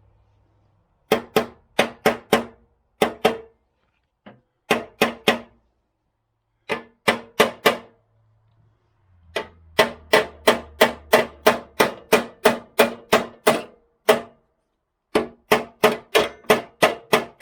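Light, rapid hammer taps on metal, in runs of three to a dozen at about four or five a second with short pauses between, each tap ringing with a clear pitch: a mower deck's blade shaft bearing being tapped into its housing.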